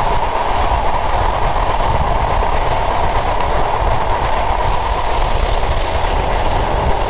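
Sundarban Express passenger train running at speed, heard from outside the coach: a steady rushing rumble of the wheels and the air, with a heavy low rumble of wind on the microphone.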